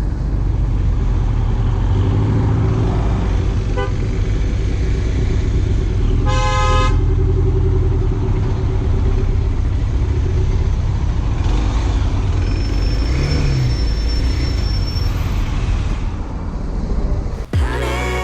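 Steady low vehicle engine and road rumble, with one short car-horn toot about six seconds in.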